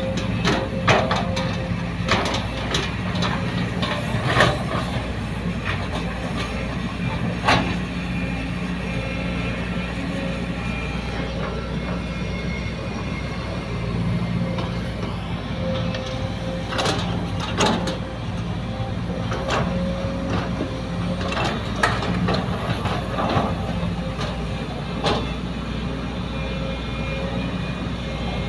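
Excavator's diesel engine running steadily under load, with a steady hum and a held tone, and sharp clanks and knocks every few seconds.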